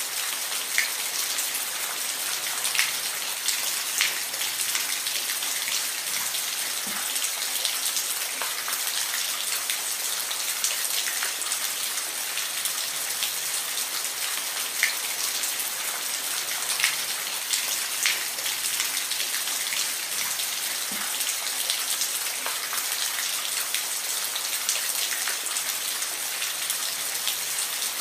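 Steady rainfall: an even hiss of rain with individual drops ticking sharply on a surface here and there.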